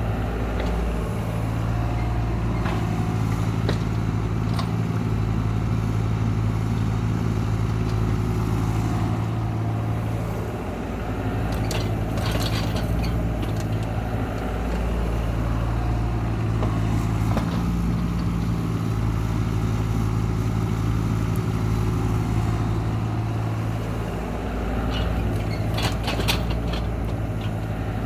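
CAT excavator's diesel engine running steadily, with a few sharp clanks and rattles from the machine at work about 12, 17 and 26 seconds in.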